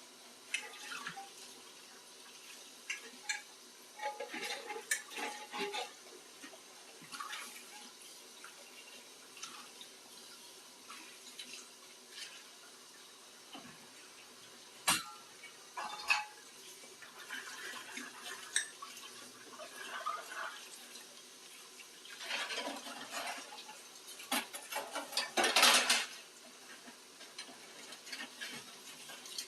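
Hand dishwashing at a sink: dishes and cutlery clinking and knocking, with intermittent bursts of running or splashing tap water. One sharp knock comes about halfway, and the loudest rush of water comes near the end.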